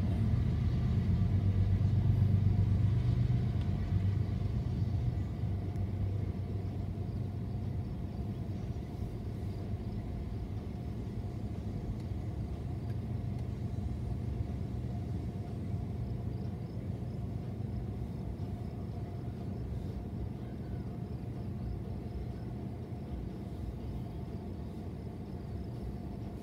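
Freight train rolling past, a steady rumble of wheels on rail. It is loudest for the first few seconds as the trailing diesel locomotives go by, then settles to a lower, even rumble from the string of tank cars.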